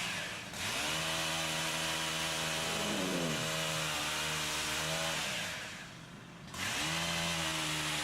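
Chainsaw engine held at high revs, easing off briefly just after the start and again for about a second near the six-second mark before opening back up to full speed.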